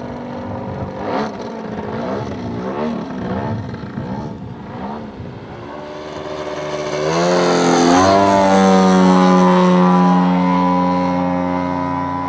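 Giant-scale RC airplane's engine and propeller in flight, the pitch wavering up and down through manoeuvres. After about six seconds it rises and grows loud as the plane comes close, then holds a steady tone.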